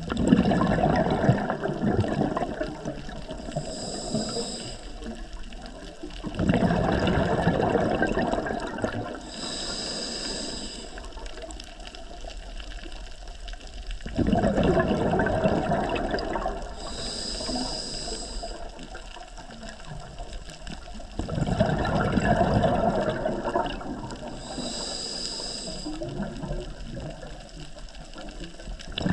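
Scuba diver breathing through a regulator underwater: a short hissing inhale with a faint whistle, then a rush of exhaled bubbles, repeating about every seven seconds, four breaths in all.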